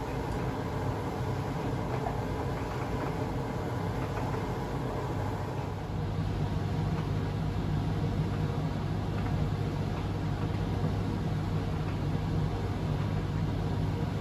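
Privileg Sensation 952 S top-loading washing machine running with a steady motor hum, which gets louder and deeper about six seconds in.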